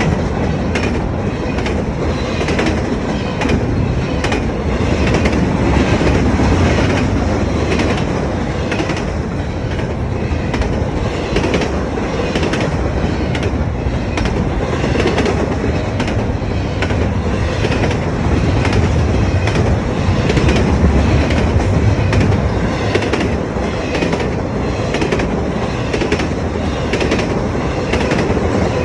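A train's cars rolling past: a steady rumble with a regular clickety-clack of the wheels passing over rail joints.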